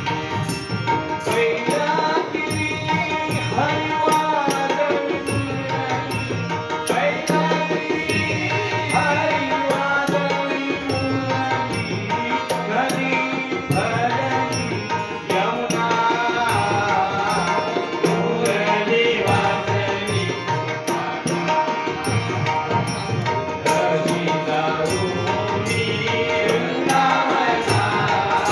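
A male singer performing a Marathi gaulan, a devotional folk song about Krishna, with hand-drum accompaniment keeping a steady beat.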